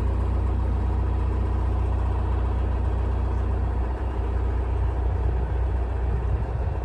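Narrowboat's diesel engine running steadily while under way, a low even drone.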